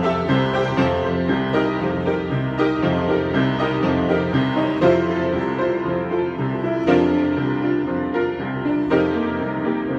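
Solo piano improvisation: sustained chords that change every second or so, with a few harder-struck notes along the way.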